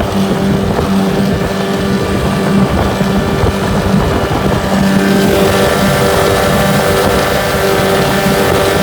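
9.8 hp Tohatsu two-stroke outboard motor running hard, driving a small fiberglass dinghy at its top speed, with a steady engine note that shifts slightly about five seconds in.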